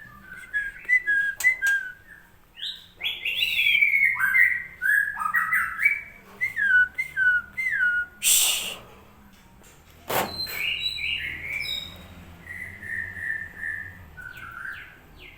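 White-rumped shama singing: a long run of clear whistled phrases, many notes sliding down in pitch. A short burst of noise comes about eight seconds in and a sharp click about ten seconds in.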